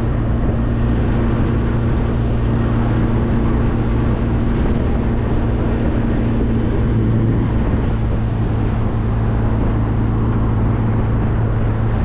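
A classic car driving at a steady speed: a steady low engine drone with road and wind noise, unchanging throughout.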